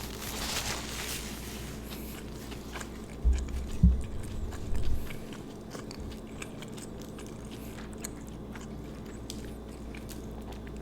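Close-miked chewing and biting of an Italian sub sandwich, with small wet mouth clicks throughout. A few low thumps come about three to five seconds in.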